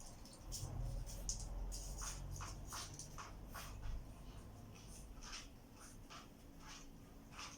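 Irregular scratching: a quick, uneven series of short, light scrapes, with a low rumble under the first few seconds.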